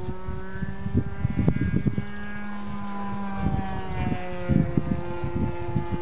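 Engine of a radio-controlled model airplane in flight, a steady droning tone whose pitch sags slowly and then rises slightly again as it passes. A second, lower engine tone runs alongside for the first four seconds or so, and wind buffets the microphone throughout.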